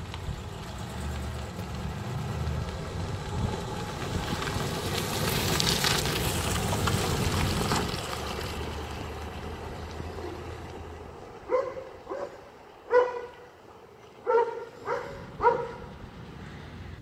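1965 Pontiac Parisienne's 283 cubic-inch V8 driving past: the engine and exhaust grow louder, are loudest about six seconds in as the car passes, and fade away as it drives off. After it, about six short animal calls follow in quick succession.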